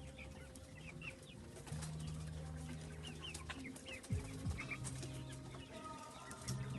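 Chickens calling, with many short high chirps, over a low steady hum that starts and stops a few times.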